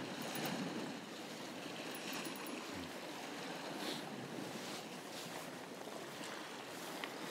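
Steady wash of sea water and waves against a rocky shore.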